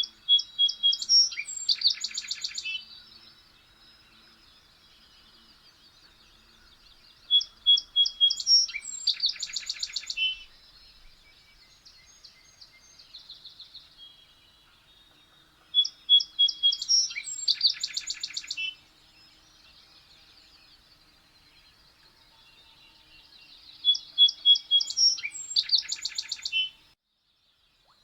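A songbird sings the same short phrase four times, about every eight seconds. Each phrase is a few clear notes running into a loud, fast trill, with fainter birdsong in between. The sound cuts off suddenly near the end.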